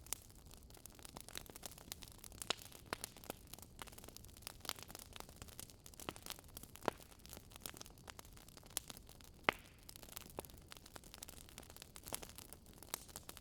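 Campfire crackling: a soft steady hiss with irregular sharp pops and snaps of burning wood.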